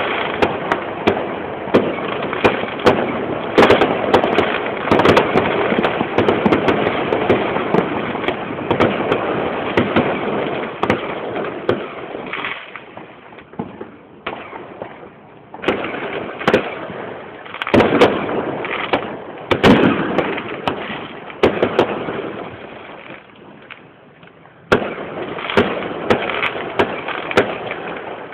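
Fireworks going off in a dense run of crackling pops and bangs, thinning out twice before a sharp bang sets them going again. The sound is muffled, as heard through a phone's narrow-band microphone.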